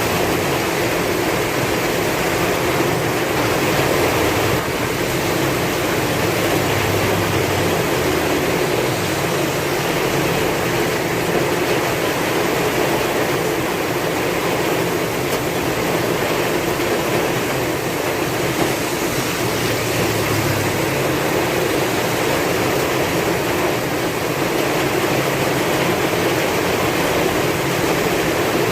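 Heavy rain falling with strong wind, a steady, even hiss with slight slow swells in the low end.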